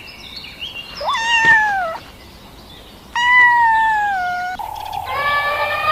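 Domestic cat meowing twice, each meow a falling call lasting about a second. Near the end a different, long steady call begins.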